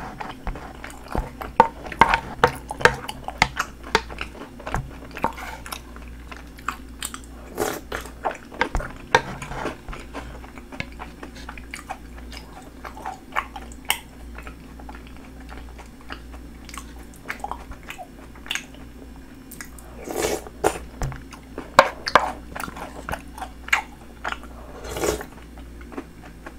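Close-up chewing and crunching of snack pieces in milky shaved ice, with wet mouth clicks; the chewing is busiest in the first few seconds and again about twenty seconds in, sparser in between.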